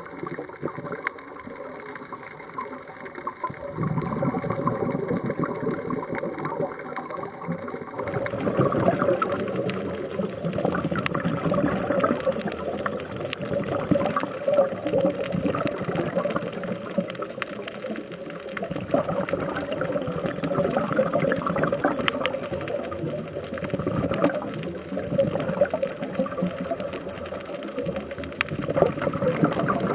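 Underwater sound through a camera housing: a diver's exhaled bubbles rushing up in swells every few seconds over a constant fine crackle of clicks from the reef.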